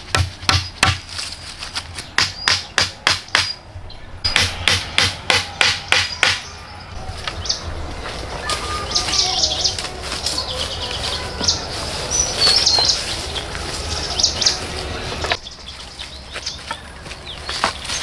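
Rapid, evenly spaced strikes of a tool on wood, about three a second, stopping about six seconds in. After that, birds chirp over a steady outdoor background.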